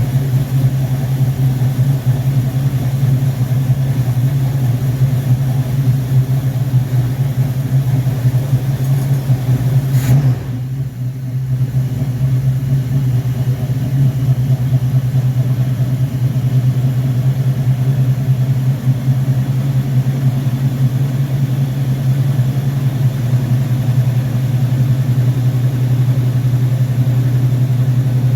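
Car engine running steadily at idle on a freshly rebuilt Rochester Quadrajet four-barrel carburetor, with one sharp click about ten seconds in.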